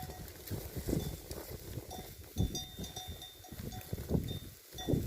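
Sheep grazing: irregular crunching and tearing as grass is pulled and chewed, with a small bell ringing briefly now and then.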